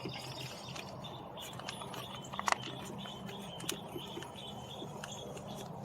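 Faint birds chirping over a steady low hum, with a few light clicks and taps; the loudest is a quick double click about two and a half seconds in.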